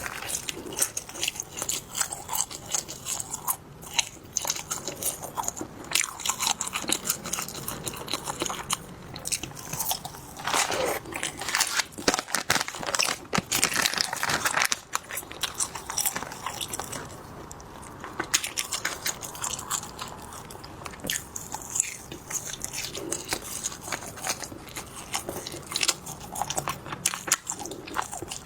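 Close-miked eating of spicy skewers: biting and chewing, with a dense, irregular run of sharp clicks and crunches.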